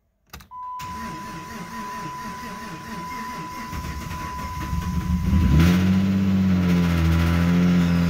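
Dodge Charger SXT's V6 cranked on the starter for about five seconds, with a steady high tone alongside, then catching and running at a fast idle. This is the car's first start after its rebuild.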